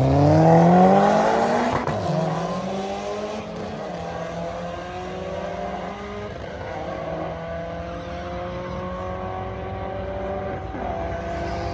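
Drag-racing car launching hard and accelerating away down the strip. The engine pitch climbs steadily, with a gear change about two seconds in, and the sound fades as the car pulls away.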